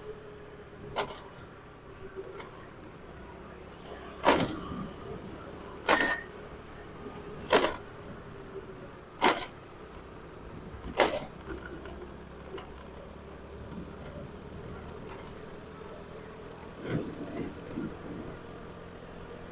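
A motor vehicle riding along the road: steady engine and road hum with a faint steady tone. Six sharp knocks come at fairly even gaps of about one and a half to two seconds in the first half, with a few lighter clicks near the end.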